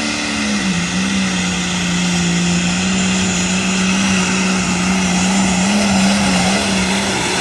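Pulling tractor's engine running at a steady, held pitch. Its pitch drops about a second in, then holds with a slight waver near the end.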